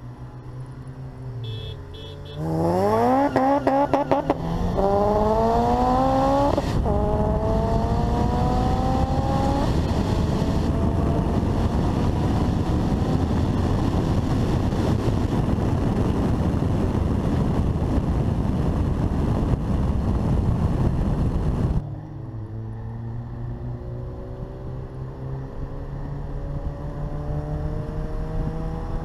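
Modified Honda Civic Si four-cylinder engine pulling at full throttle: the revs climb steeply and drop back at three gear changes, then a loud steady rush of engine and road noise at high speed. About 22 seconds in, the throttle is lifted and the engine falls to a lower tone that rises slowly again.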